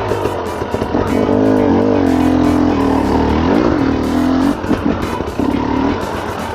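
Dirt bike engine revving up and down in repeated short throttle bursts at low speed, the pitch rising and falling every second or so.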